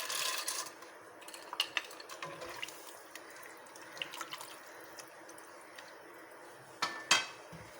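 Water splashing and sloshing in a cooking pot as cashew nuts go in, louder in the first half-second, then faint stirring with scattered light clicks and a short louder clatter about seven seconds in.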